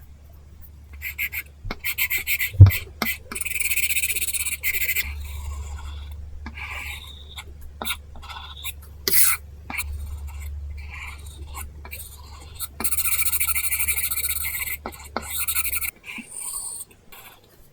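Apple Pencil scratching across a paper-textured screen film on an iPad, in quick hatching strokes with small taps of the pencil tip. Longer runs of rapid scratchy strokes come at about 3 to 5 seconds and 13 to 15 seconds in, and one sharp knock comes between 2 and 3 seconds. A low steady hum runs underneath.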